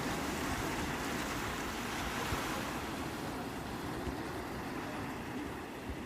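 Sea waves washing onto the shore in a continuous rushing surf, swelling a little about two seconds in and easing slightly near the end.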